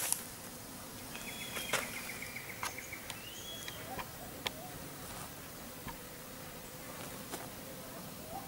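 Quiet outdoor background of insects buzzing and faint bird chirps and trills, with a few sharp light clicks as a .22 air rifle is loaded.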